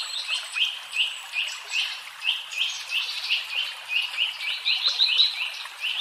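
A small bird chirping in a fast, even series of short, sharp notes, about three a second, coming quicker for a moment about four seconds in.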